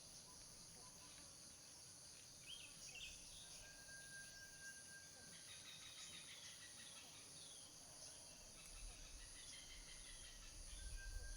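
Faint forest ambience: a steady, pulsing high insect trill with scattered short bird calls and a thin held whistled note twice. A low rumble comes up near the end.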